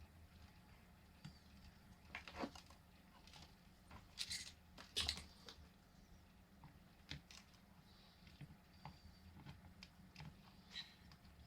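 Faint, scattered clicks and light taps of pliers and small tools being handled at a workbench, over a steady low electrical hum; the loudest taps come around two, four and five seconds in.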